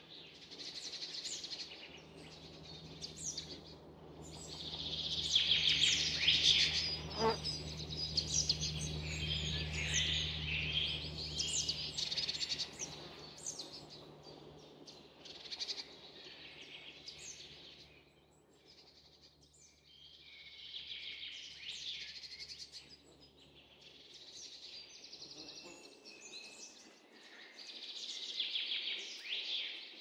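Forest songbirds chirping and singing in bursts of quick, sharp high notes, busiest and loudest about five to seven seconds in. A low steady hum lies underneath and fades out near the end.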